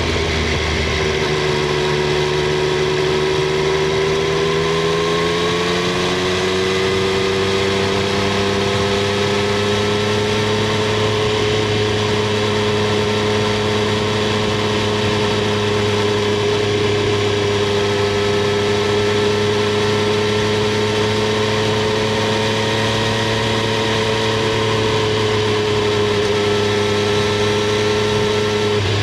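Triumph Street Triple 765 R's inline three-cylinder engine and exhaust running steadily on the move. The note drops about a second in, climbs gently over the next several seconds, then holds an even pitch.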